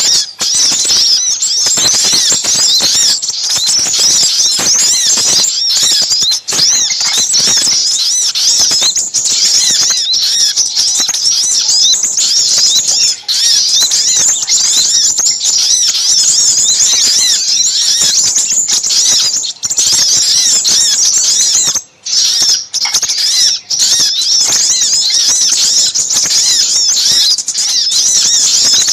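Small songbirds, sogok ontong mixed with sepah raja (crimson sunbird), calling in a dense, non-stop chorus of high-pitched chirps and twitters. This is a bird-lure recording made to draw small birds in. There is a brief gap about 22 seconds in.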